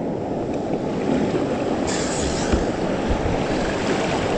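Creek whitewater rushing steadily, with wind rumbling on the microphone and a brief brighter hiss of water about two seconds in.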